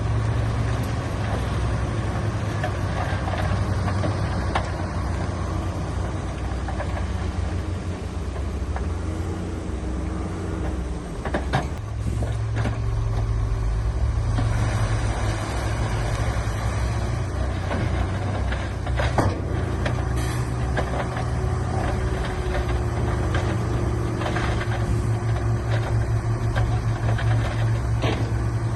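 Diesel engine of heavy earthmoving machinery running steadily with a deep throb, with a few sharp knocks or clanks over it.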